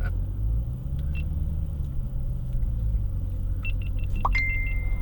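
Dodge Challenger Scat Pack's 6.4-litre HEMI V8 rumbling at low speed, heard from inside the cabin, its pitch rising a little and falling back. Near the end, a quick run of about seven short electronic beeps, then a single held beep tone.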